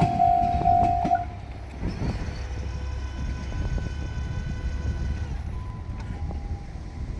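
Level crossing warning alarm ringing while a JR Shikoku diesel railcar passes close by, the alarm cutting off about a second in. The railcar's diesel engine then runs on as a low rumble, growing quieter as it moves away.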